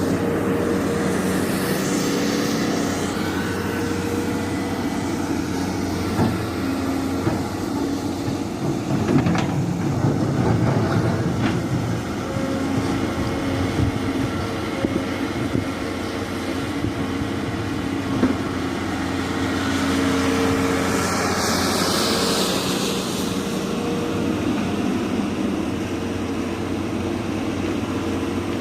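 Volvo EC480 crawler excavator working under load: a steady diesel engine drone with hydraulic tones that rise and fall as the boom and bucket move. A few sharp knocks come about a third of the way in, and a scraping hiss swells near the end.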